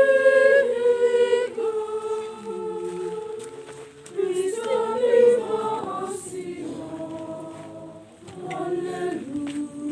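A group of students singing together as a choir, in phrases that swell and fall back.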